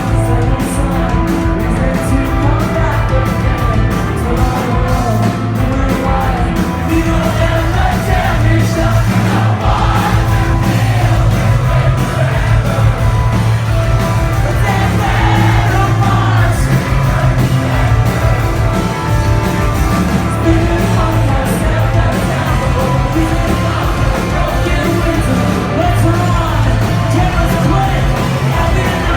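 Live post-hardcore band playing loud with distorted guitars, bass and drums, with singing and shouted vocals, recorded from the crowd and sounding distorted and boomy.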